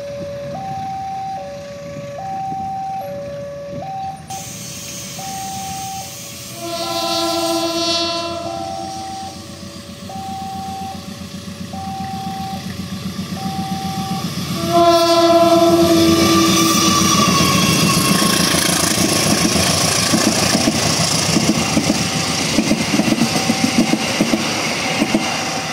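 Level crossing warning signal alternating between two tones about once a second. A train horn sounds twice, first about 7 seconds in and then louder about 15 seconds in, as the train approaches. The train then passes with a loud rumble and rapid wheel clacks near the end.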